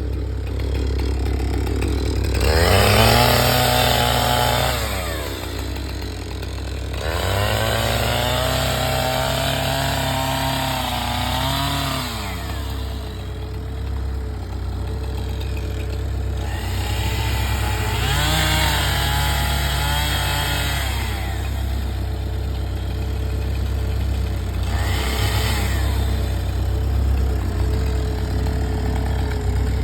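Gas chainsaw idling, then revved up four times: the longest rev lasts about five seconds, and a short blip comes near the end.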